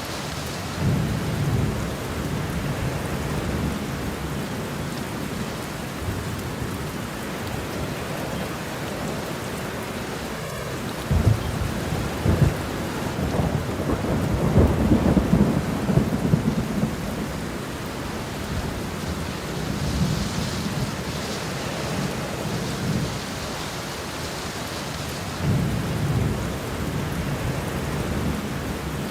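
Steady rain with rolling thunder. A loud rumble breaks in suddenly about eleven seconds in and rolls on for several seconds, and fainter rumbles come near the start and twice more later.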